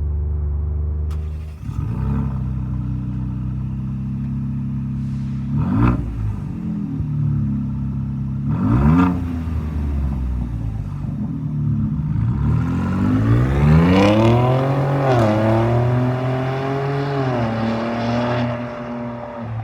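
2021 Ford Bronco's 2.7L twin-turbo V6 through an MRT King Of The Hill dual-tip axle-back exhaust, idling and then revved: two short blips of the throttle, then a longer rev that climbs, is held high and drops back near the end.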